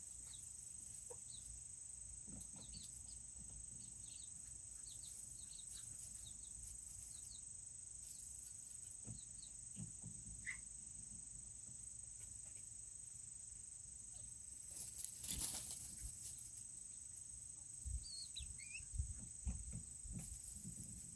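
Serama chickens clucking and peeping softly in scattered short calls, over a steady high-pitched hiss. A brief rustle comes about fifteen seconds in.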